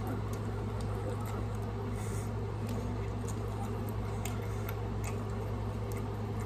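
Chewing and small wet mouth clicks while eating breaded food, with scattered soft ticks, over a steady low hum.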